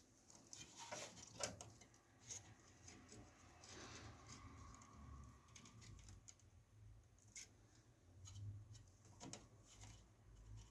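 Near silence with faint, scattered clicks and light rustling.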